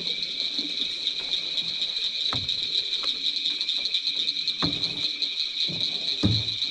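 Steady, high-pitched chorus of night insects, with four dull knocks against the jon boat's hull; the last, near the end, is the loudest.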